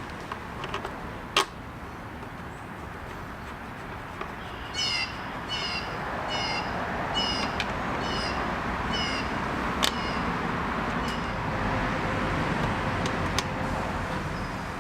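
A bird calling a series of about seven quick repeated notes, roughly two a second, in the middle of the stretch, over steady background noise. A few sharp clicks stand out, about a second in and near ten seconds.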